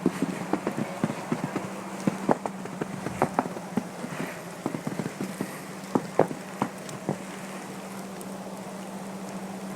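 Wet, sticky snow pattering, making irregular sharp ticks of varying loudness that thin out and stop about seven seconds in. A steady low hum runs underneath.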